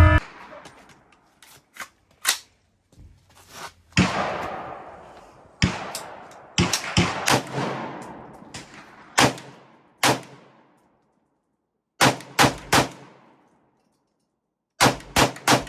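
Gunshots at a shooting range: about fifteen sharp, echoing shots fired at irregular intervals, some in quick runs of two or three.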